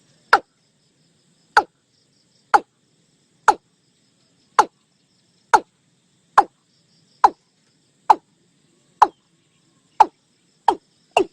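Watercock calling: a series of short, clipped 'kok' notes, each dropping quickly in pitch. The notes come about one a second and quicken to about two a second near the end.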